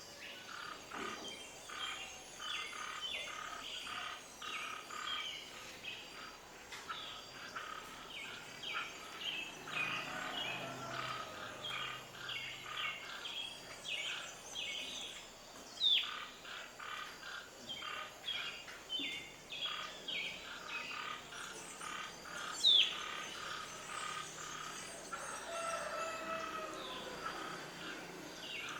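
Birds chirping, a dense run of short, quick chirps, with two louder calls that sweep downward in pitch, the first about halfway through and the second about three-quarters of the way in.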